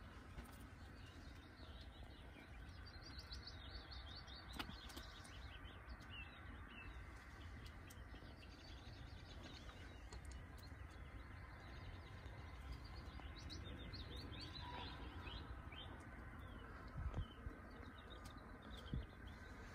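Faint birdsong: clusters of quick high chirps and trills that come and go, over a low steady rumble. A couple of soft knocks near the end.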